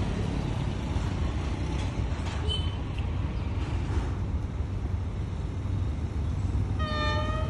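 Steady low rumble of traffic and an approaching D19E diesel-electric locomotive, with one short horn toot near the end.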